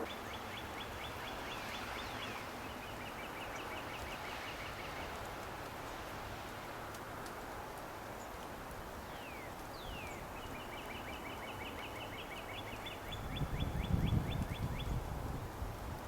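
A small songbird singing rapid trills of quickly repeated notes, three times, over a steady outdoor hiss. Near the end come low crunching thumps of footsteps in snow.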